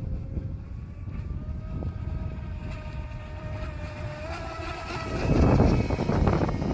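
Electric whine of an HK Princess RC boat's brushless motor (stock 1620KV, 4S LiPo), its pitch rising slowly as the boat speeds up, over steady wind rumble on the microphone. About five seconds in the whine gives way to a louder rush of noise.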